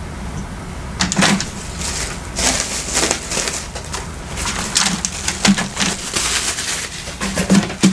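Crinkling and crackling handling noise in repeated short bursts, starting about a second in, as spring rolls are taken from their takeout packaging; a low steady hum runs underneath.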